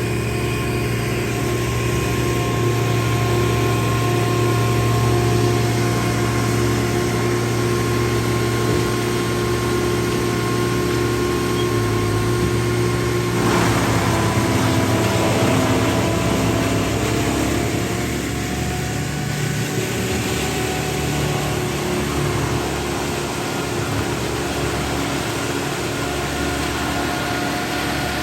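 Engine of tree-removal equipment running steadily. About thirteen seconds in there is a sudden louder rush of noise, and the engine's pitch shifts and wavers for a few seconds before settling again.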